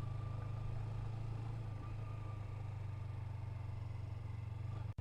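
Motorcycle engine running steadily at low revs, a constant low hum with no revving. The sound drops out for an instant near the end.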